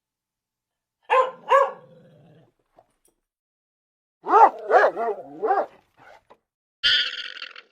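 A dog barking: two barks about a second in, then a quick run of four barks near the middle. Near the end comes a short hissing, noisy sound of another kind.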